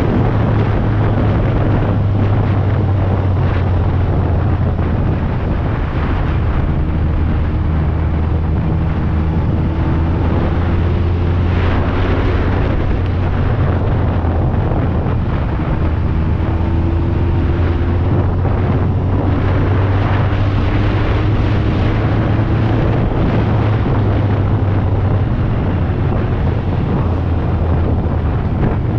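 BMW K1200R Sport's inline-four engine running at a steady cruise, its note rising slightly now and then, under heavy wind rumble on the microphone.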